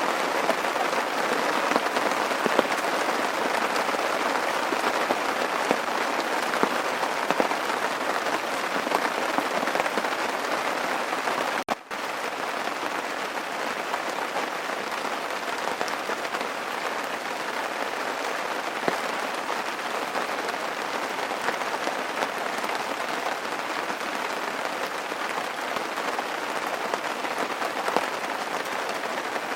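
Steady rain falling, a dense patter of many small drops. It cuts out for a moment about twelve seconds in and comes back slightly softer.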